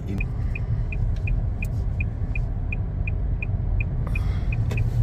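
Low engine and road rumble inside the cab of a 2023 Ford pickup, with a steady high ticking about three times a second, typical of the turn-signal indicator.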